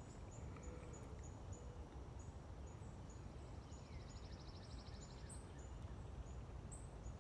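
Faint outdoor ambience with small birds and insects chirping: a high chirp repeating about three times a second, a buzzy trill in the middle, and two quick rising whistles near the end.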